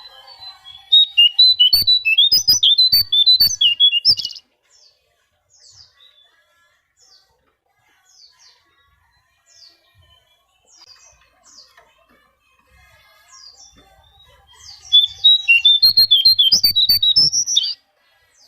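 Konin bird singing: two bursts of rapid, high twittering chatter a few seconds long, with faint scattered chirps in the gap between them.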